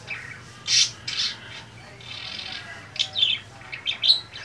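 Small birds chirping in short, high, falling calls at irregular intervals, with a quick run of chirps in the last second and a half.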